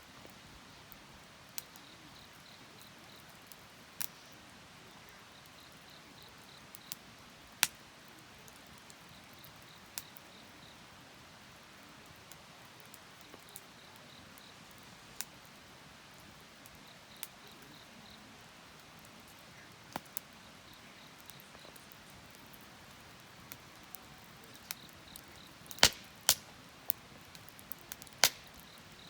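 Wood fire crackling, with scattered sharp pops and a few louder snaps near the end, over a faint steady hiss. An insect chirps in short repeated trills in the background.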